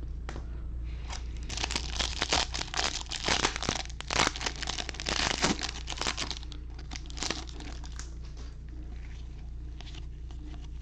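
Crinkling and tearing of a baseball card pack's foil wrapper as it is ripped open and handled, thickest in the first half and thinning to a few scattered crackles.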